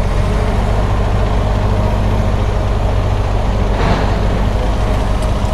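Motorcycle engine idling steadily close to the microphone, the bike stopped with the rider astride it.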